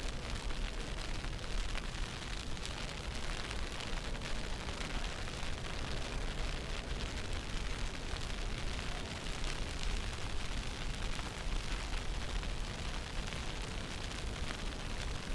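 Snowstorm wind buffeting the microphone: a steady rushing rumble, heaviest in the low end, with no breaks.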